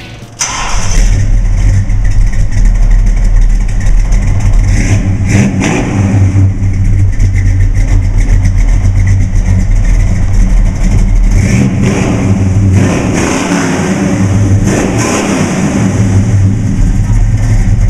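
1964 Chevrolet Chevelle's 383 stroker small-block V8 running through its exhaust with a deep, steady rumble, revved up a few times.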